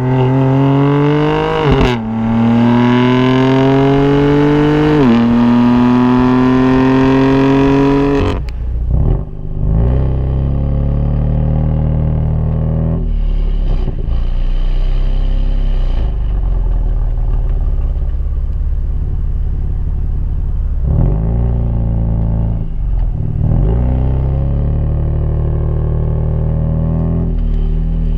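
BMW M4's twin-turbo straight-six accelerating hard through the gears: the engine note climbs, dips at upshifts about two and five seconds in, and climbs again. About eight seconds in the revving stops and the engine settles into a low, steady drone for the rest.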